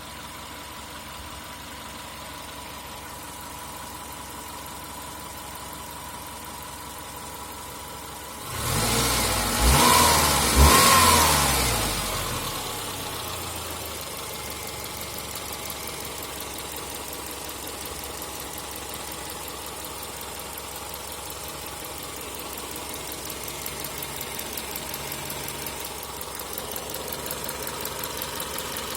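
Warm Subaru EJ15 flat-four engine idling with a clear, diesel-like knock of unknown cause. About eight seconds in it is revved up twice in quick succession, then drops back to idle.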